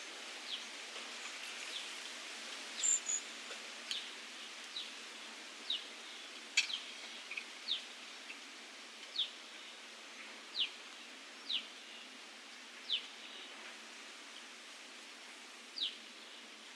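A bird giving short, high, downward-slurred chirps, repeated irregularly about once a second over a steady outdoor hiss.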